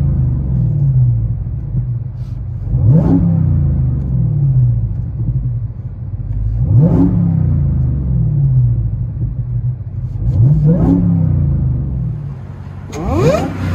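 A 2017 Dodge Charger Hellcat's supercharged 6.2 L Hemi V8 is revved four times through a dual exhaust with the rear resonators deleted. It idles with a rumble between revs, and each rev rises sharply in pitch and then falls back.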